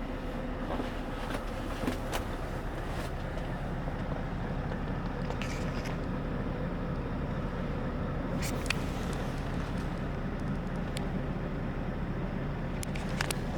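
Scania S730's V8 diesel engine running steadily, with a few faint clicks over it.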